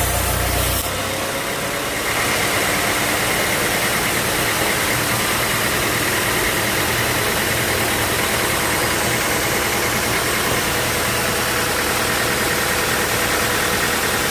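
Sawmill machinery running with a loud, steady noise. A low hum drops away about a second in, and a steady higher whine joins about two seconds in and holds.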